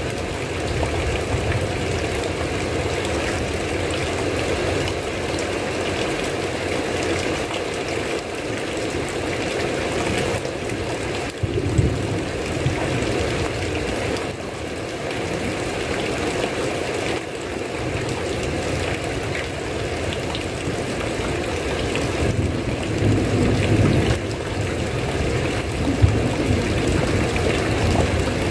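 Steady heavy rain, with low rumbles of thunder swelling up a couple of times.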